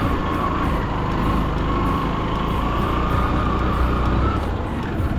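Motorcycle engine running steadily on the move, with wind rumbling over the microphone and a faint wavering whine.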